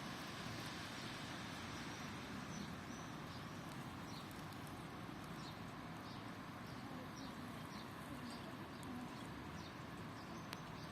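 Steady hiss of falling rain, with a small bird giving a series of short, high, down-slurred calls, about two a second, starting a couple of seconds in.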